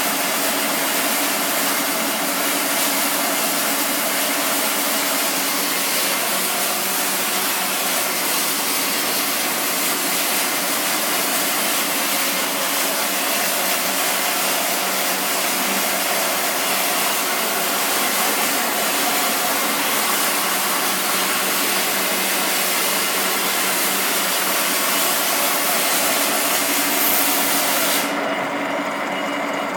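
Electric arc welding: a steady, loud crackling hiss from the arc that runs for almost half a minute and cuts off suddenly near the end, over a low steady machine hum.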